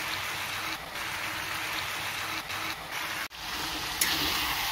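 Pork, tomato and spices sizzling steadily in a steel kadai. The sound breaks off for an instant about three seconds in, then a sharp click comes near the end and the sizzle grows louder.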